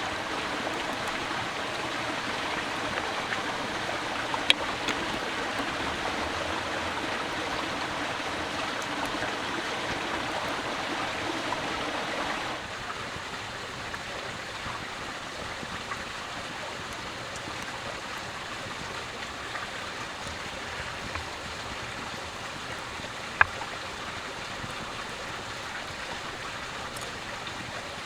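Steady rushing noise with no tones in it, a little quieter from about halfway through, and a couple of sharp clicks.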